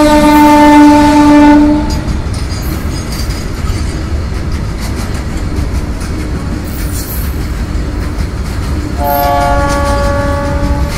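Goods train running by: its horn sounds a chord for about the first two seconds, then the wagons rumble and clatter over the rail joints. About nine seconds in the horn sounds again and is held.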